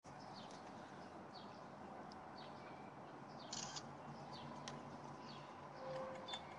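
Faint background bird chirps: short high calls that slide downward, repeated every half second to a second, with a brief rustle about three and a half seconds in.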